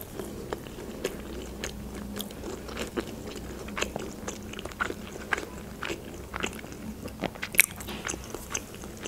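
Close-miked chewing of a crispy-coated chicken nugget with the mouth closed: irregular small crunches and clicks, with one sharper crunch about seven and a half seconds in.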